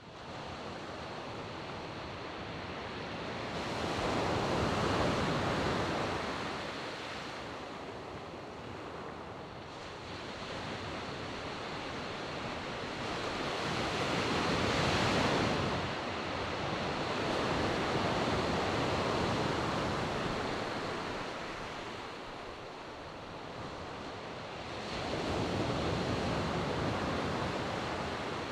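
Sea waves breaking on a shore and washing back, in slow surges that swell and fade every several seconds.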